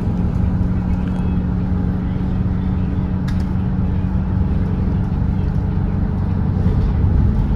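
Volvo B8RLE double-decker bus's diesel engine running steadily at cruising speed on the expressway: a constant low drone with a steady hum, and a faint tick about three seconds in.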